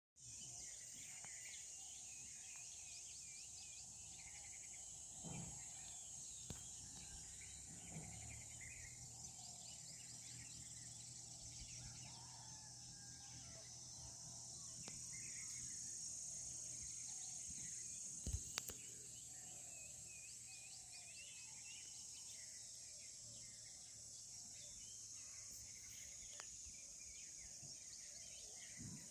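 Faint outdoor ambience: a steady, high-pitched insect chorus with scattered bird calls over it, and a couple of brief knocks about two-thirds of the way through.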